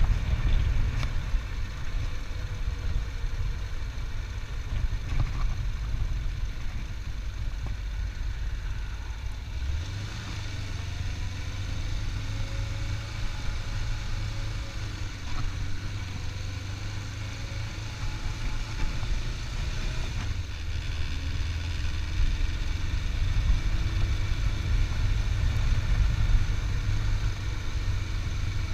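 Motorcycle engine running steadily on the move, with a low rumble and the rush of wind; the low drone grows stronger about ten seconds in.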